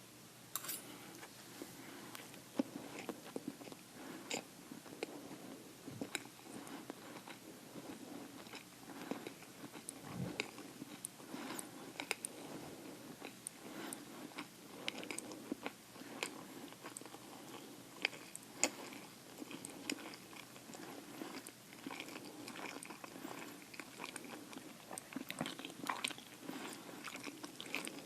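Close-miked chewing and biting of food, with many short mouth clicks and small crunches, starting abruptly after a quiet stretch.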